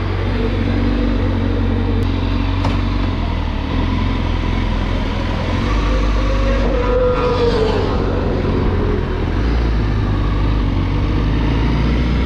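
Honda CBR1000RR-R Fireblade's 1000 cc inline-four engine running at low, fairly steady revs, with a brief rise and fall in pitch about halfway through.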